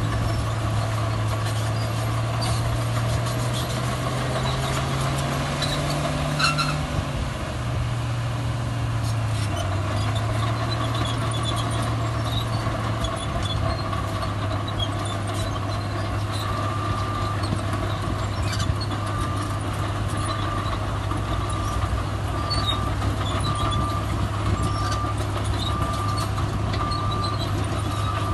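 Heavy diesel earthmoving machinery running steadily. The engine note rises and then drops back about six to seven seconds in, with a short sharp hiss or clunk. From about halfway through, a reversing alarm beeps about once a second.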